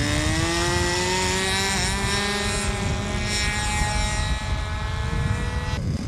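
Radio-controlled model airplane's engine running at high revs on takeoff, a whine that rises in pitch over the first two seconds and then holds nearly steady. The tone cuts off abruptly near the end.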